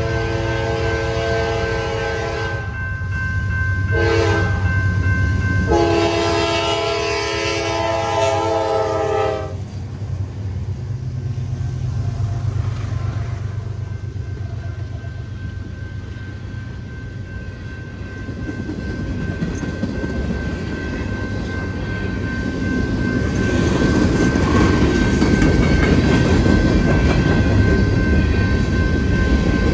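Norfolk Southern freight train at a grade crossing. The lead locomotive's Nathan K5LA horn sounds a long blast ending about two and a half seconds in, a short blast, then a long blast of about four seconds. The GE diesel locomotives rumble past, then the freight cars roll through with a building clatter of wheels over the rails, while the crossing bell rings with a steady tone.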